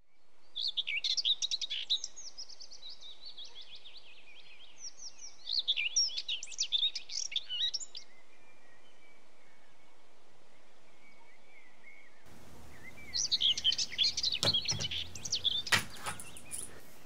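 Songbirds chirping and singing in three short bouts of quick high notes over a steady hiss, with a few sharp clicks near the end.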